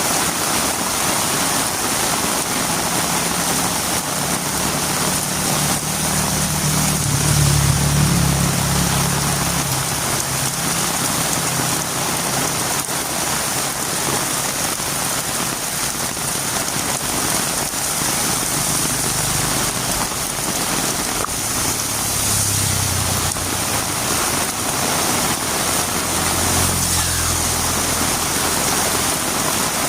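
Heavy rain falling steadily on a road. A low engine hum swells and fades twice, once peaking about eight seconds in and once near the end.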